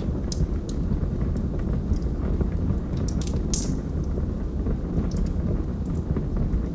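Wood logs burning in a fireplace: a steady low roar of flames with scattered crackles and pops, a brief cluster of sharper snaps about three seconds in.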